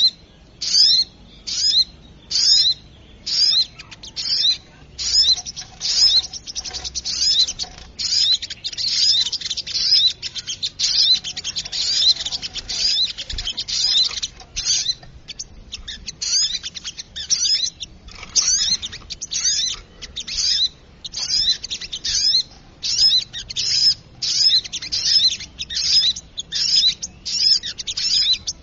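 Sogok ontong (little spiderhunter) calling over and over as a bird-lure recording: short, sharp, high-pitched calls, about two a second, thickening into busy chatter for a stretch in the middle.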